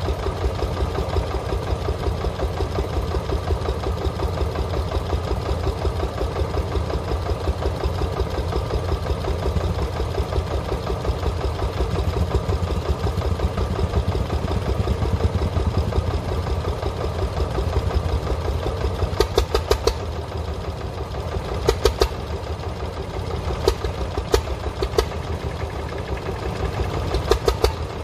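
Tractor engine running steadily with an even, fast pulse. In the second half a few sharp clicks or knocks sound over it.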